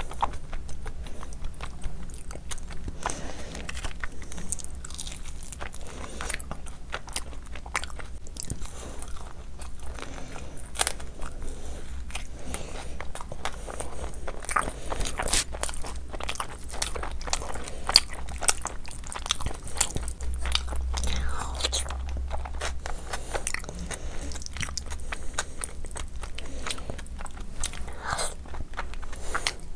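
Close-miked eating: wet chewing and lip smacks on mouthfuls of soft khichdi (rice and lentils), with fingers squishing through the food and bites into chicken, a dense run of small clicks and crunches throughout.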